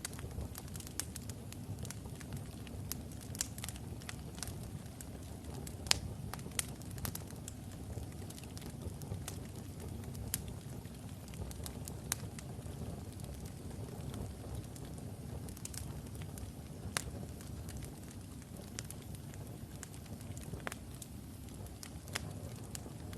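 Wood fire of burning logs in a fireplace: a steady low rumble of the flames with frequent irregular crackles and pops, the sharpest pop about six seconds in.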